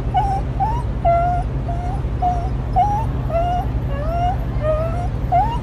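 Dog whimpering: a run of short high whines, about two a second, many of them rising in pitch, over a steady low hum.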